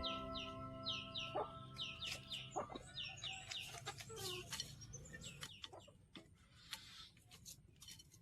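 Chickens calling: a rapid string of short, high, falling peeps mixed with clucks, thinning out over the last few seconds.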